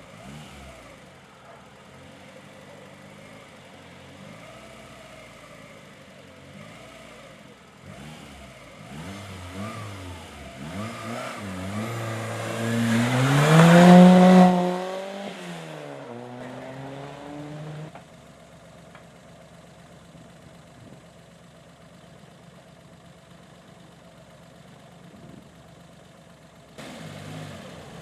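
Hill climb race car approaching under hard acceleration, its engine note rising and dipping through gear changes, loudest about halfway through as it passes. The pitch drops as it goes by and fades away a few seconds later.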